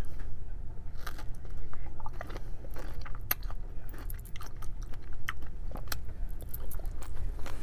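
Close-up chewing and biting of a fresh strawberry: soft, wet mouth sounds with scattered small clicks.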